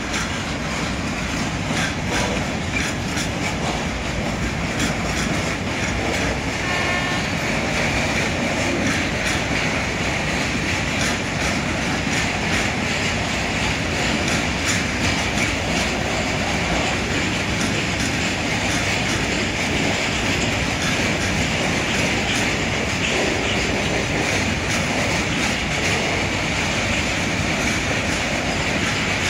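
A long freight train of covered hopper wagons rolling past, its wheels clattering steadily over the rail joints. A high squeal runs underneath and grows stronger in the second half.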